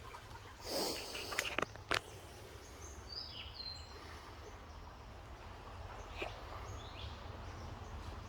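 Quiet forest ambience under a low steady rumble, with a few brief, faint bird chirps a few seconds in. Near the start there is a short rush of noise and a handful of sharp clicks.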